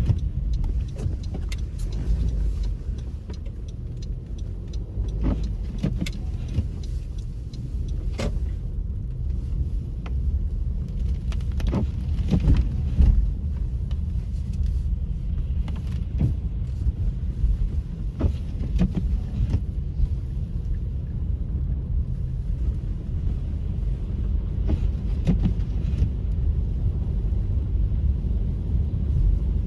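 Car driving on a snowy road: a steady low road and tyre rumble, with scattered small clicks and knocks at irregular intervals.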